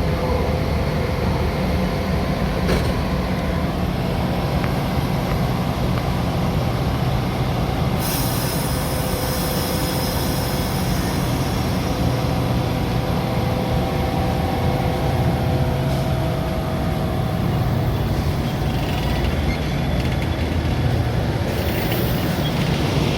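Metra commuter train running on the rails: a steady low rumble of the rolling train, with a hiss that starts suddenly about eight seconds in and fades over a few seconds, and another short hiss near the end.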